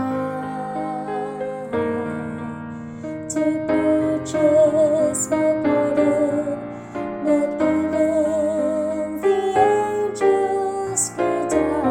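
A woman's voice sings a slow second-soprano choral line with vibrato, held notes and soft sibilants, over piano accompaniment.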